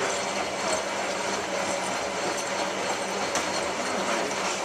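Hotpoint 9534A washing machine running a descaling Cotton 85 wash: the drum turns with a steady running noise and a constant low motor hum, with faint ticks.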